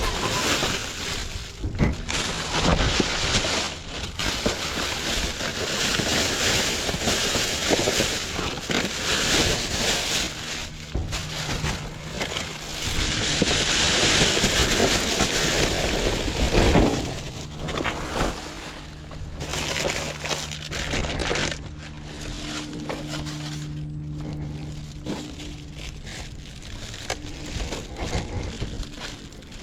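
Rummaging through a dumpster: bags and discarded items rustling, clattering and knocking, with a louder crash near the middle. A steady low hum runs through the second half.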